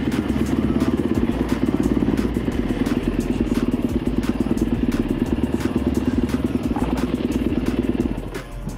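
Single-cylinder four-stroke engine of a 2022 Yamaha YZ450F supermoto running steadily under way, then dropping away about eight seconds in.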